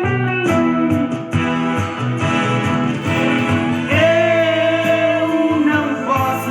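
Instrumental break of a romantic Brazilian pop song played loudly through a Toshiba stereo, with a sliding lead melody over bass notes and chords.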